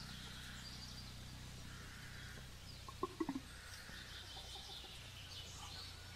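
Faint outdoor background of birds calling, with a couple of short low cluck-like calls about three seconds in, over a steady low hum.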